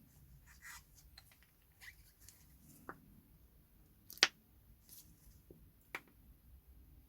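Quiet handling noises of small engine parts and tools being worked by hand, with a few light clicks and taps; one sharp click a little past four seconds in is the loudest.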